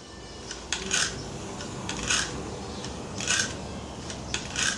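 Gamo CFX Royal air rifle's cocking lever scraping as the action is worked, four short rasps about a second and a quarter apart. The owner says this noise should not be there.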